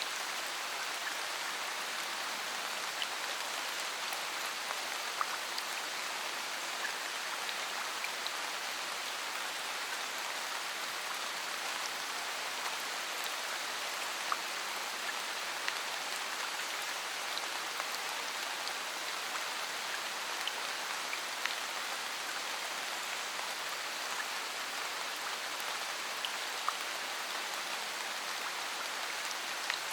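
Steady rainfall, an even hiss with scattered drops tapping close by.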